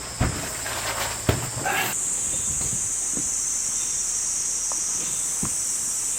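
A few knocks and handling clatter, then a steady high-pitched hiss sets in about two seconds in, with a few faint taps under it.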